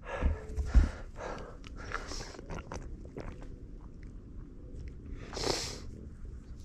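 A rider breathing out audibly close to the microphone a few times, the strongest breath about five seconds in, among small clicks and handling noises, with a couple of low thumps near the start.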